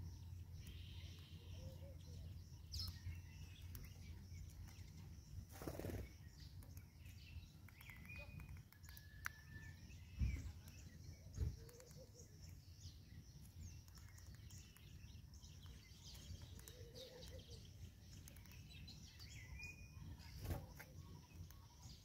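Faint outdoor birdsong: scattered short chirps and brief whistles from small birds over a low, steady background rumble. A few soft knocks come around the middle.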